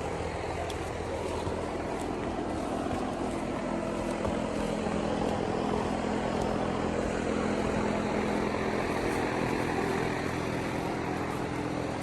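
Car engine running with a steady low hum, heard from in or beside the car.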